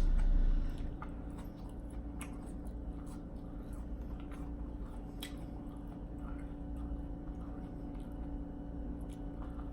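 Close-up chewing of food, with occasional sharp crunchy clicks, over a steady low background hum; a low rumble sounds in the first second.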